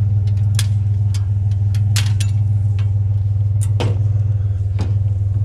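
Pickup truck engine idling with a steady low hum, with several sharp knocks scattered through it.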